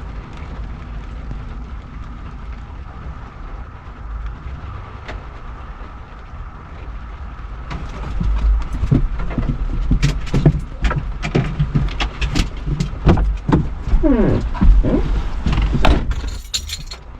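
Steady rumble of wind and rain, then about halfway in a run of loud knocks, thumps and rustles with a few short squeaks, like someone climbing into a car and shutting the door.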